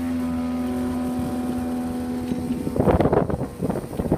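Level crossing barrier mechanism running with a steady hum as the barriers rise, stopping about two and a half seconds in. A louder, rough, irregular noise follows.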